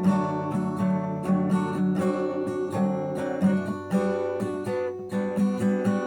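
Acoustic guitar strummed with a capo on the second fret, chords ringing with a steady rhythm of strokes.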